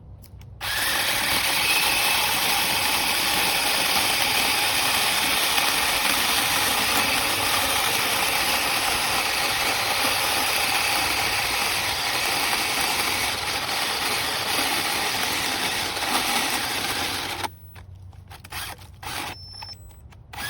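V-MODEST cordless 6-inch mini chainsaw running and cutting through a log about five inches thick. It starts about half a second in, runs steadily, and cuts off about 17 seconds in.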